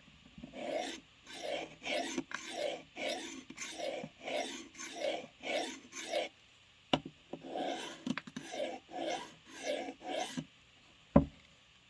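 Knife blade being drawn across the coarse diamond plate of a Work Sharp Field Sharpener, rasping strokes about two a second, with a short break and a click about seven seconds in. A sharp knock near the end is the loudest sound.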